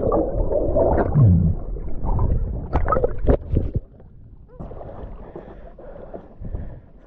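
Water splashing and sloshing around a small sailing dinghy, loud with a few sharp knocks for the first four seconds, then settling to a quieter steady rush.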